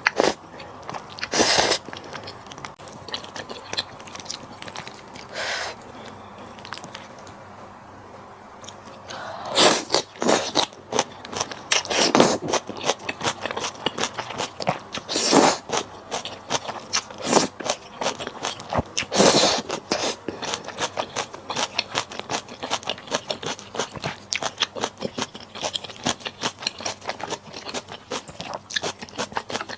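Close-miked eating of malatang: crunchy chewing and biting, with a few louder smacks and scrapes. Sparse at first, then a steady run of quick chewing clicks from about a third of the way in.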